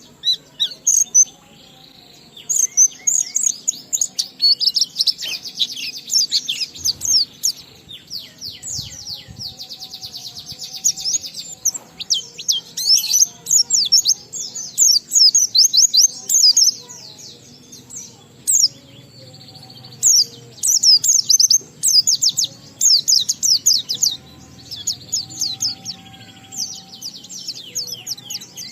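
White-eye (pleci) singing in full, continuous song (ngalas): rapid, high-pitched chirps and fast descending trills in bursts a second or two long, one after another with hardly a pause.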